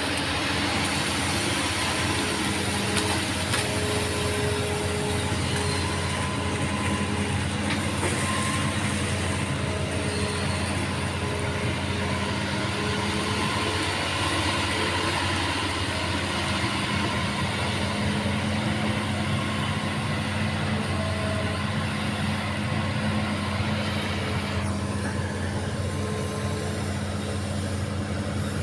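Excavator's diesel engine running steadily with a constant low hum; its higher-pitched noise eases off about 25 seconds in.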